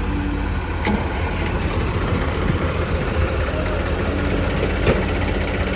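Diesel engines of a JCB backhoe loader and a tractor running steadily at a low, even speed, with a sharp click about a second in and a lighter knock near the end.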